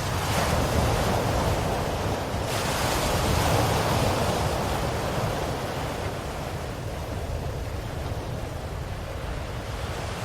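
Ocean waves breaking and washing on the shore in a steady rush of surf. One wave swells a few seconds in and slowly ebbs away. The upper hiss cuts off abruptly a couple of seconds in.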